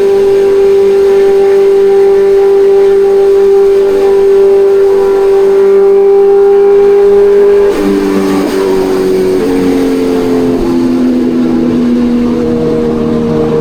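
Kawasaki Ninja 1100SX's inline-four engine running under way at steady revs. About eight seconds in, the pitch drops abruptly with a brief dip in loudness, and the revs then step down and rise again.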